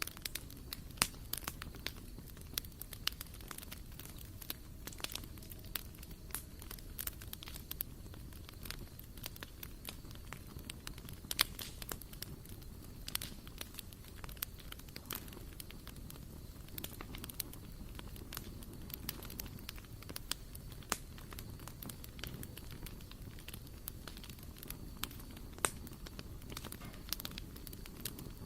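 Wood fire burning in a barbecue grill, crackling with frequent irregular sharp pops over a steady low rumble.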